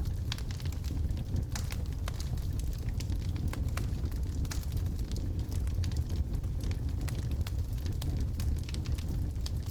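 Wood logs burning in a fireplace: many irregular crackles and small pops over a steady low rumble of the flames.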